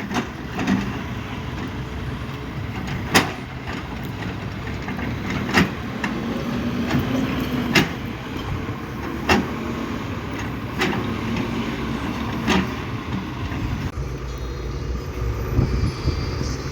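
Steady low engine rumble, with a sharp click every couple of seconds and a brief low hum about halfway through.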